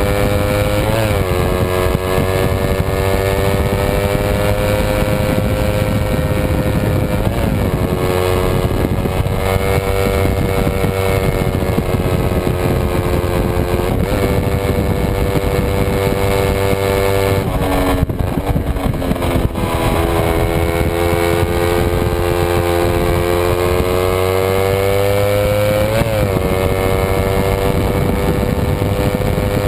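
Kawasaki Ninja 250 parallel-twin race engine heard from on board, revving hard at racing speed. Its pitch climbs slowly and dips sharply for a moment several times, and drops to lower, uneven revs for a couple of seconds about eighteen seconds in.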